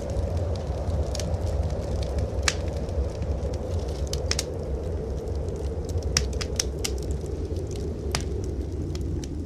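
Wood fire crackling in a fireplace, with several sharp pops scattered through, over a steady low rumble.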